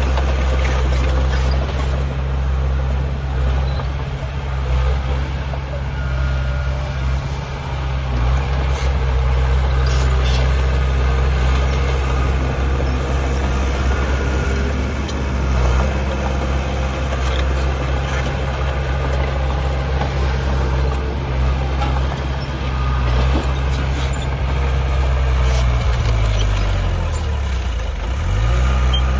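Diesel engine of heavy earthmoving machinery running steadily, with a few light metallic knocks; near the end the engine note sags and then climbs back up.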